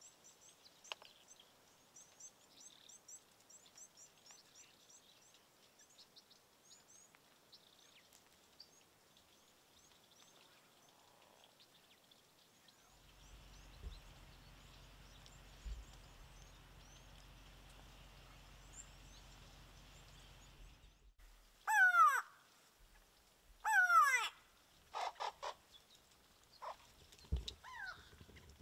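Wild birds calling: faint high chirping of small birds, then two loud, harsh calls that slide down in pitch about 22 and 24 seconds in, followed by a few shorter calls. A low steady hum runs through the middle stretch.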